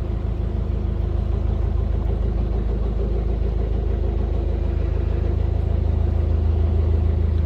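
Canal boat's engine running steadily under way, a low, even drone.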